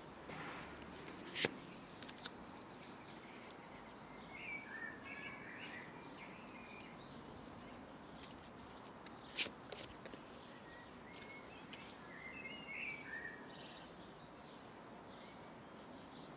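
Birds chirping in two short bouts over a steady outdoor background of wind, with two sharp clicks, one about a second and a half in and one about nine and a half seconds in.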